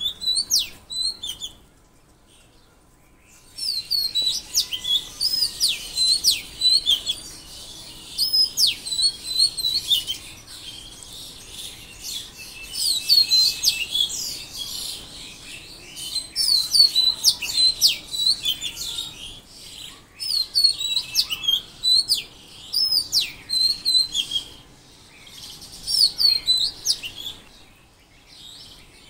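Songbirds chirping in quick bouts of rapid, repeated high notes, each bout lasting a few seconds with short pauses between, and a brief lull about two seconds in.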